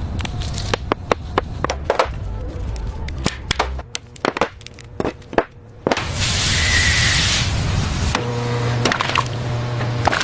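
Irregular sharp knocks and clicks over a low rumble, a burst of hiss about six seconds in, then a steady low hum, with music underneath.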